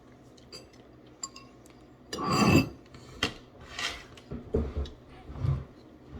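Spoons clinking and scraping against bowls as fruit cereal in coconut water is eaten, in scattered small clicks, with a louder noise about two seconds in and a few dull knocks near the end.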